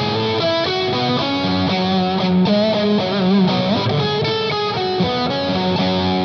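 Overdriven electric guitar playing a run of single-note lead lines, with a wavering vibrato note about three seconds in and a string bend just after.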